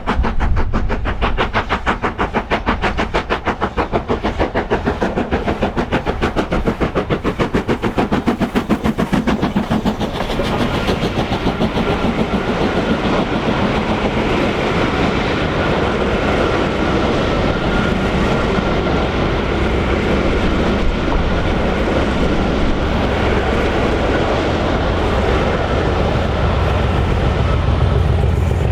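LMS Black 5 steam locomotive working hard, with rapid, even exhaust beats, followed from about ten seconds in by its train of coaches rolling past with a steady rumble of wheels on rail and clickety-clack. A deeper engine drone builds near the end.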